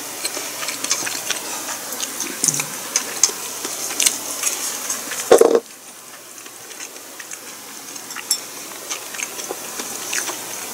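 A person chewing food close to the microphone, with many small wet mouth clicks. About halfway through there is one short, louder thump, after which the background hiss is lower.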